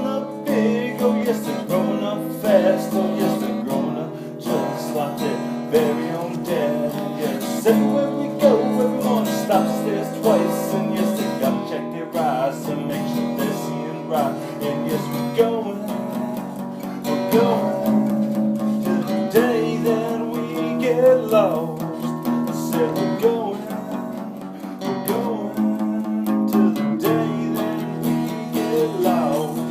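Acoustic guitar strummed steadily, playing through the chords of a simple song with a wavering melody line over them.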